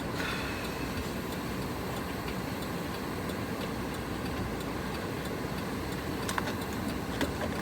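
Steady low rumble of a car's running engine, with a few light, irregular clicks and ticks over it.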